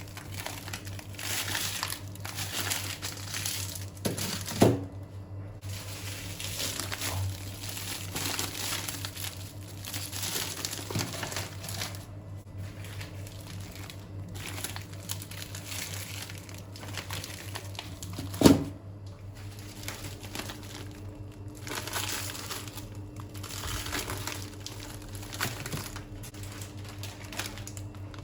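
Wrapping being handled and crinkled in short, repeated spells, with two sharp knocks, one about four and a half seconds in and one about eighteen seconds in.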